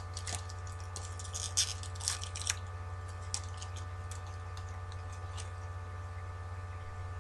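Crinkling and clicking of a trading-card box's packaging being opened and its packs handled, busy for the first two and a half seconds and then sparse, over a steady electrical hum.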